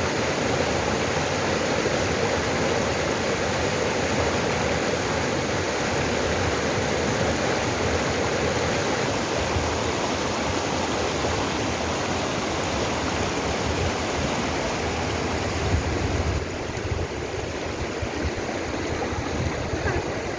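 Mountain stream rushing steadily over rocks in a valley, a continuous splashing rush of water that becomes a little softer near the end.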